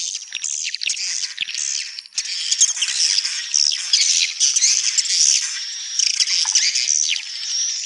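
Many swiftlets twittering at once: a dense, continuous high-pitched chatter of overlapping chirps, with a thin steady whistle near the end.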